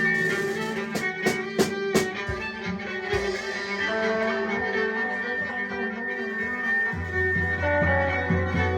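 Live band playing an instrumental passage of held, sustained tones, with a few sharp drum hits about a second in and a low bass part coming in near the end.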